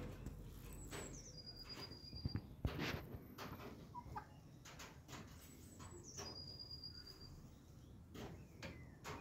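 Faint small-bird calls: two thin, high whistles about five seconds apart, each dropping in pitch and then holding briefly. Scattered soft clicks and taps sound throughout, the loudest a little over two seconds in.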